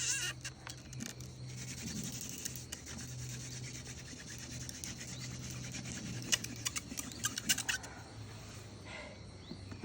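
Wooden friction fire drill being worked: a spindle rubbing and scraping steadily against a wooden board to raise an ember, with a few sharp clicks near the end.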